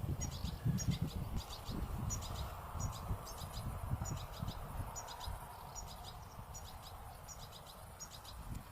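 Tibetan serin chicks calling: a steady series of short, high, thin chirps, about two or three a second, with a low rumbling on the microphone during the first two seconds.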